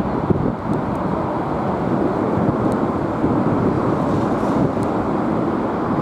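Boeing 747's jet engines giving a steady, loud rumble, with wind buffeting the microphone.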